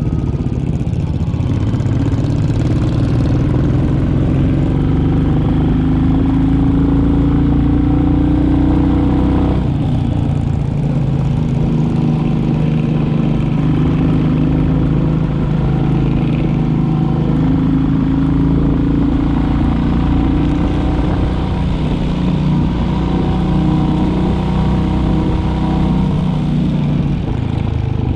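Royal Enfield Classic 350's single-cylinder four-stroke engine running under way, its pitch rising steadily over the first nine seconds or so. About ten seconds in the note breaks briefly, then it runs on at a fairly even pitch with small rises and falls.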